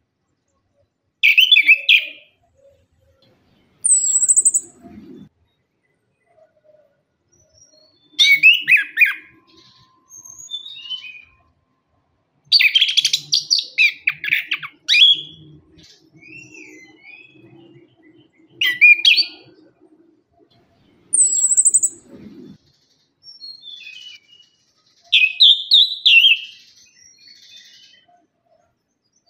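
Chestnut-capped thrush (anis kembang) singing in short, loud bursts of rapid, varied notes, separated by pauses of a second or more. A thin high whistle comes twice.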